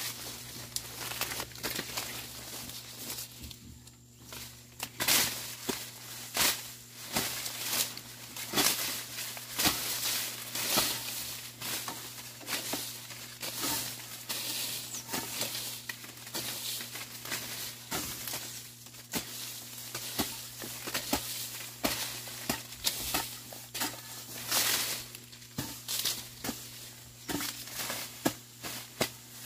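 A hoe chopping and scraping through weeds and soil in repeated, irregular strikes, roughly one a second, with a brief lull a few seconds in.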